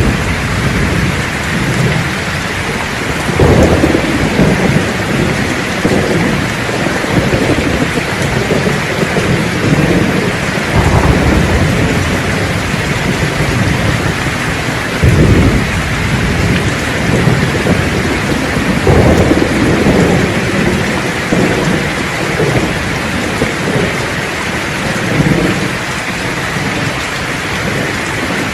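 Steady heavy rain hissing, with thunder rumbling again and again underneath, the strongest sharp cracks of it about three and a half, fifteen and nineteen seconds in.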